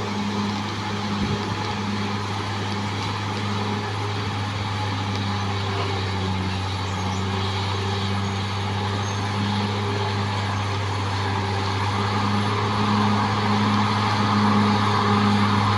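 Caterpillar D6R XL bulldozer's diesel engine running steadily: a deep continuous drone with a rough, noisy layer over it, growing a little louder in the last few seconds.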